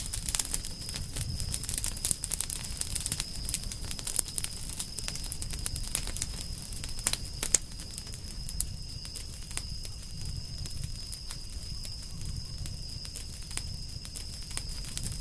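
Wood campfire burning: irregular sharp pops and snaps of the burning logs over a low rumble of the flames. The pops come thicker in the first half, with a couple of louder snaps.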